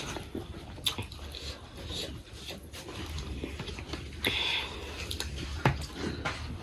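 Close-up eating sounds: chewing with scattered small mouth clicks and smacks, and a brief hiss about four seconds in.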